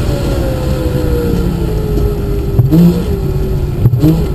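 Wartburg 312's three-cylinder two-stroke engine heard from inside the car, its note sinking steadily as the car slows for a corner, with a short blip of revs about three seconds in and another near the end.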